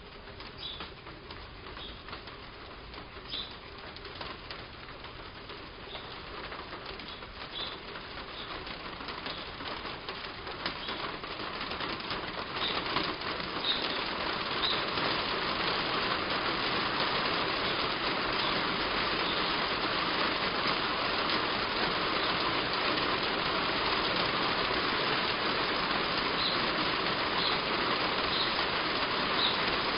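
Rain on a roof, building from a light patter with scattered drips to steady heavy rain over the first fifteen seconds or so. Short, high bird chirps repeat throughout.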